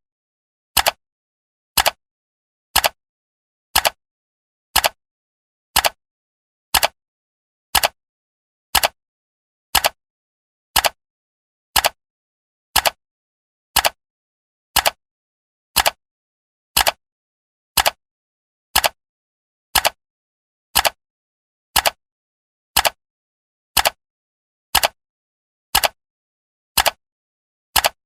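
Clock ticking sound effect: one short, sharp tick every second, evenly spaced, with silence between the ticks.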